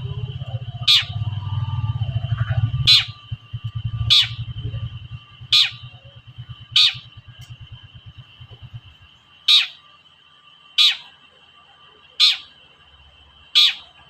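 Long-tailed shrike (cendet) giving nine short, sharp 'toet' calls, one about every second and a half. A low fluttering rumble runs under the first two-thirds and fades out.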